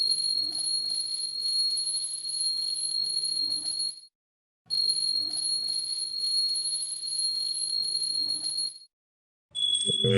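Space-sound sonification played as the sound of a celestial body: a steady high-pitched ringing tone over a faint crackling rumble, lasting about four seconds, breaking off, then playing again the same way. Near the end a different steady tone begins.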